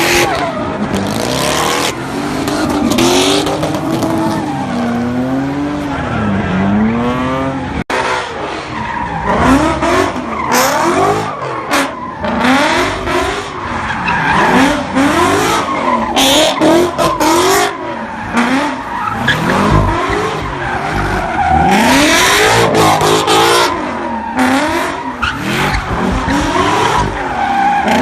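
Cars spinning donuts at a street sideshow: engines revving up and down over and over, with tires screeching and skidding. The sound breaks off for an instant about eight seconds in.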